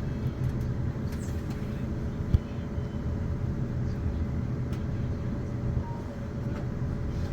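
Class 450 Siemens Desiro electric multiple unit running on the line: a steady low rumble with a faint steady hum. One sharp knock comes about two seconds in.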